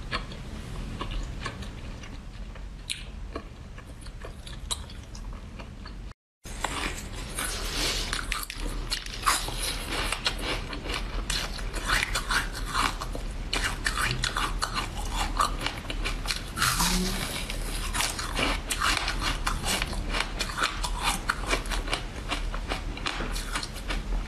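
Close-miked mouth sounds of soft jelly pieces being chewed. After a brief gap about six seconds in, louder, crisp bites and chewing of a crumb-topped chocolate bar.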